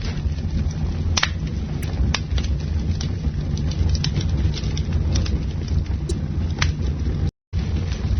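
Campfire burning, with scattered sharp crackles and pops over a steady low rumble. The sound cuts out completely for a moment a little after seven seconds.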